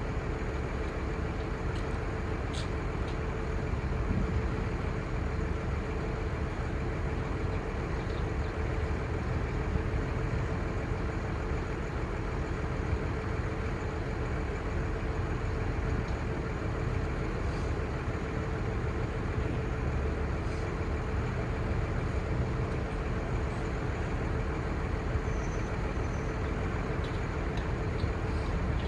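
5.9L Cummins six-cylinder turbo diesel of a Ford F800 crane truck idling steadily, a low rumble with a constant hum over it.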